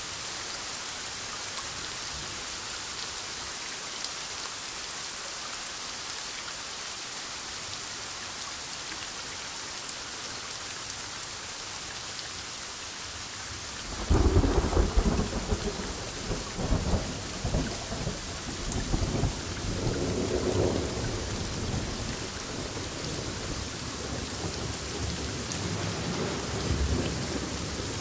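Steady heavy rain falling, then about halfway through a sudden loud clap of thunder that rolls on as rumbling in several waves until the end.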